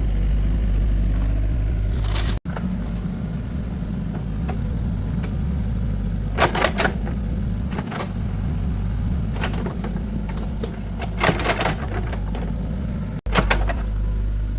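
Excavator's diesel engine running steadily, with short bursts of clanking and scraping twice, about halfway through and again near the end.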